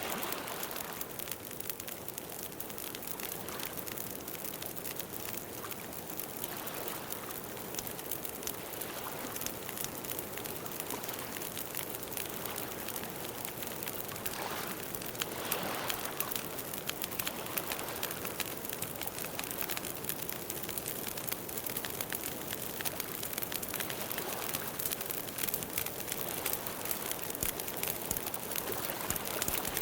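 Campfire crackling steadily, a constant hiss dotted with many small pops.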